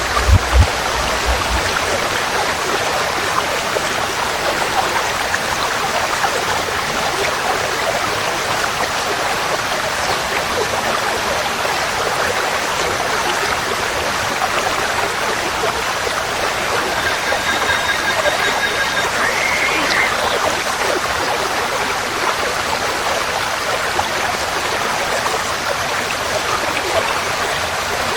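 Forest stream flowing steadily with an even, full rush of water. A couple of low thumps sound right at the start, and about two-thirds of the way through a faint bird call is heard briefly.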